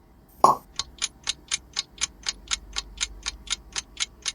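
Quiz countdown-timer sound effect: a clock ticking steadily, about four ticks a second, starting just after a short burst of sound about half a second in.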